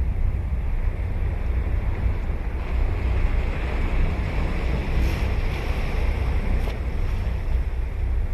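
Ocean surf breaking and washing up a sandy beach, the rush of a wave swelling about a third of the way in, with a steady low rumble of wind on the microphone underneath.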